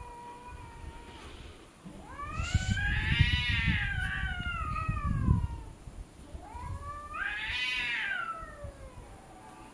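Domestic cats caterwauling in a hostile standoff: two long drawn-out yowls, the first rising and then slowly falling over about four seconds, the second shorter, a little later.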